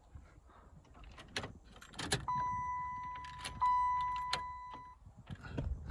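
Keys clicking and jangling in the ignition of a 1995 Chevy Caprice, then a steady electronic warning tone from the dash sounds for about three seconds, cut by a click partway through. The engine is not running.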